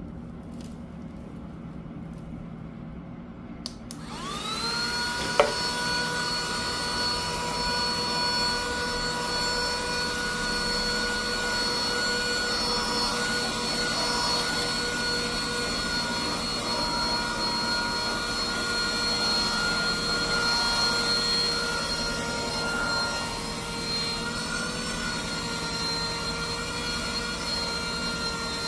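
Handheld portable vacuum cleaner switched on with a click about four seconds in. Its motor spins up to a steady high whine over rushing air, with a sharp knock just after start-up, and runs steadily.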